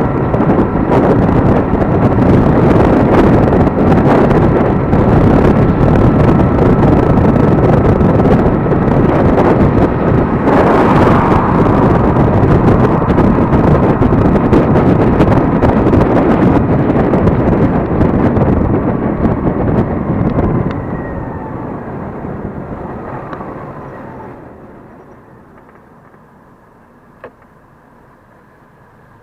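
Wind buffeting the microphone of a moving Gogoro 2 electric scooter, loud and steady with a faint whine in it. About twenty seconds in it fades away as the scooter slows, with a falling whine, leaving a much quieter background and a single click near the end.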